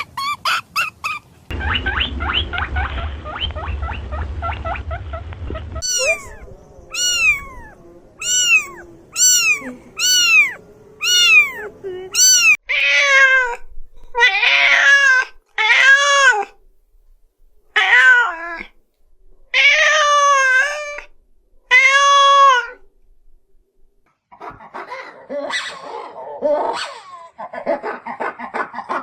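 Cat meowing over and over: first a run of short, high-pitched mews, then longer, louder meows about one every second or two. A low buzzing sound comes before them, and a jumble of rougher calls comes near the end.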